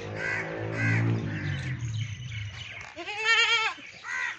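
Makhi Cheeni goats bleating, with a loud quavering bleat about three seconds in and a lower drawn-out bleat at the start. Crows caw in short calls.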